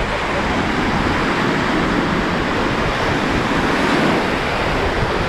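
Sea surf washing steadily onto a sandy beach, an even rushing noise with no single waves standing out.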